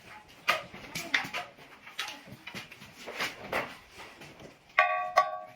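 Irregular knocks and clatter from handling parts, then two ringing metallic clinks about half a second apart near the end.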